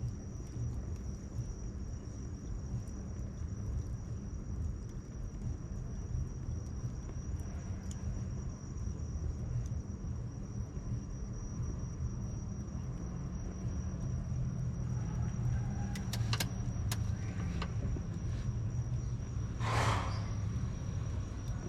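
Wood bonfire burning with occasional sharp crackles, a few clicks late on and one louder pop-and-hiss near the end, over a steady low rumble of city traffic and a constant thin high-pitched tone.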